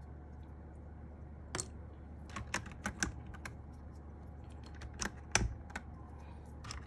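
Scattered light plastic clicks and taps of keyboard keycaps being handled, irregular rather than a typing rhythm, the loudest a little past the middle, over a low steady hum.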